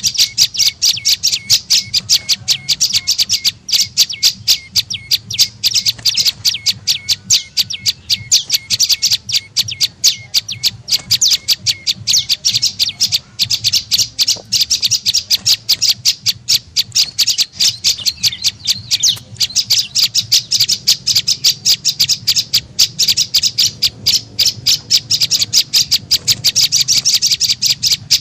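Prenjak lumut calling: an unbroken series of fast, sharp, high chirps, several a second, over a faint low hum. It is the lure call used to draw the bird in.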